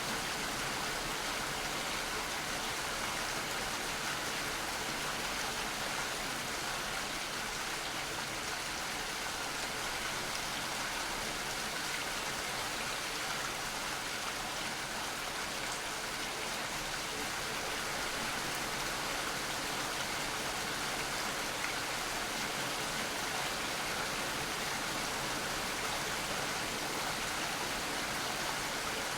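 Steady rainfall, an even hiss of falling rain with no change in strength.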